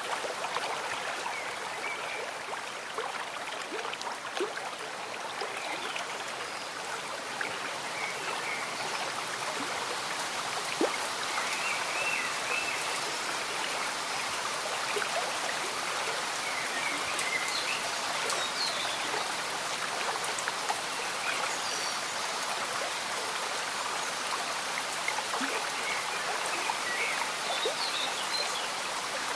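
Slow-moving stream bubbling steadily with gentle rain falling, its drops ticking throughout.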